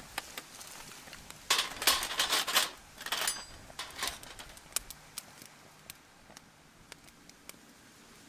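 Campfire crackling with scattered sharp pops. About one and a half seconds in comes a louder burst of clatter and rustling that lasts about a second.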